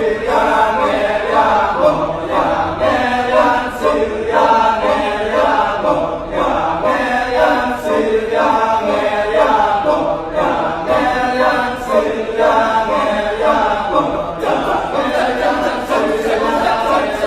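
Balinese kecak chant: a chorus of voices chanting together, unaccompanied and rhythmic.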